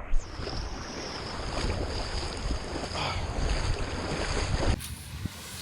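Ocean surf rushing and churning around a GoPro action camera, with wind noise on its microphone, as a steady rushing that cuts off suddenly near the end.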